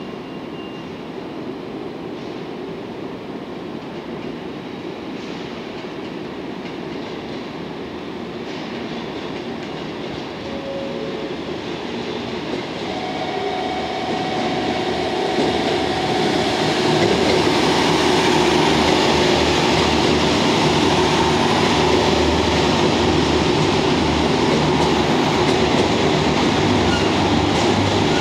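JR Kyushu KiHa 72 series 'Yufuin no Mori' diesel multiple unit running slowly past, its engines and wheels on the rails growing steadily louder over the first two-thirds as it nears, then holding loud as the cars go close by. A few short, thin squeals from the wheels come midway.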